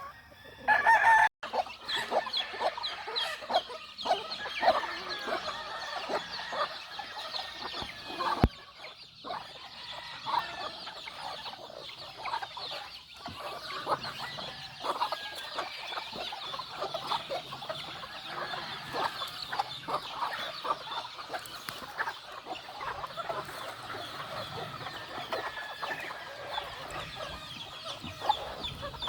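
A flock of gamefowl chickens clucking continuously, with roosters crowing among them. A loud burst about a second in cuts off abruptly, and there is a single sharp knock about eight seconds in.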